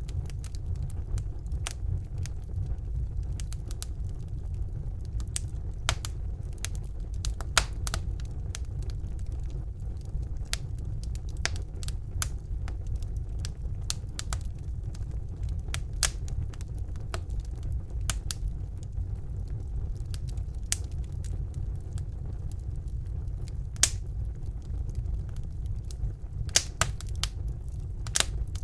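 Wood fire burning in a fireplace: a steady low rumble of the flames with sharp, irregular crackles and pops of the burning logs.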